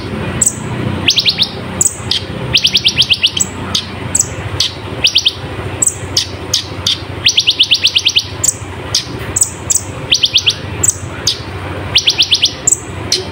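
Kolibri ninja sunbird singing: repeated short, fast trills of high, thin notes, each trill lasting well under a second, mixed with sharp high chips, over a steady low hum.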